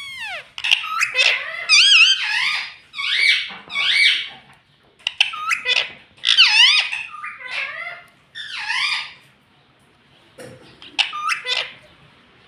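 Pet ring-necked parrot chattering: a run of short, high-pitched calls with a warbling pitch for about nine seconds, then a few more calls after a brief pause near the end.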